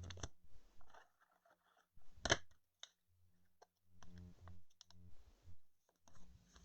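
Faint clicks and light rustling of a trading card being handled and slid into a plastic sleeve or holder, with one sharper click about two seconds in.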